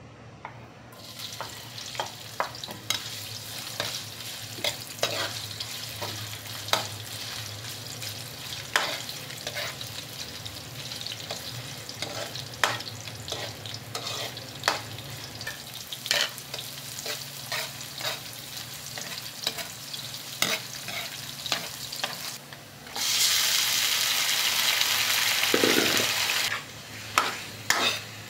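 Ginger strips frying in oil in a steel wok, with a spatula scraping and knocking against the pan every second or so. Near the end, a loud sizzle lasting a few seconds as raw chicken pieces go into the hot oil, then the spatula scraping again.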